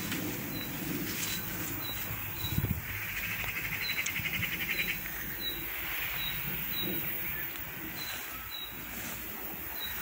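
Woodland birds calling: a short high note repeated steadily, and a buzzy trill from about three to five seconds in. Underneath, rustling and steps in the undergrowth, with a thump about two and a half seconds in.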